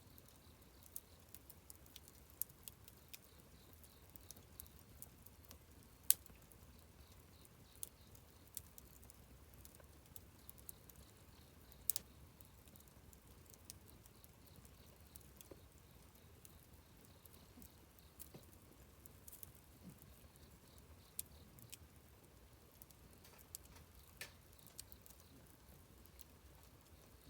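Wood fire crackling faintly, with irregular small snaps and two louder pops about six and twelve seconds in.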